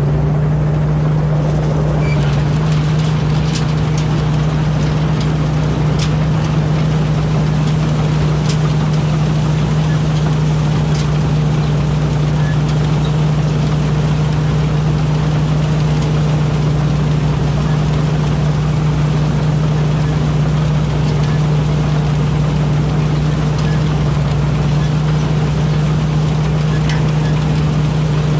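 Rice combine harvester running steadily under load: an even engine drone with a strong low hum and a few faint ticks.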